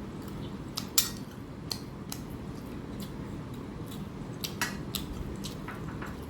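Close-up mukbang eating sounds: scattered sharp clicks and clinks of food being handled and scraped on a plate, the loudest about a second in and a few more near four and a half seconds, over a low steady hum.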